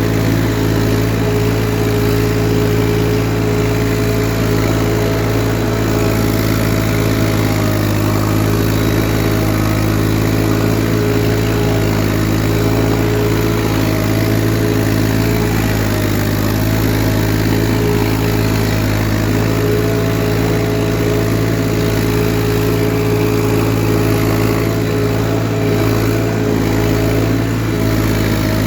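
Massey Ferguson 1035 DI tractor's three-cylinder diesel engine running steadily at an even pitch while pulling a cultivator.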